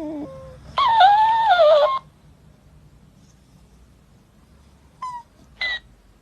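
A pet animal's wavering, drawn-out cries: one trailing off at the start, a long loud cry about a second in, then two short calls near the end.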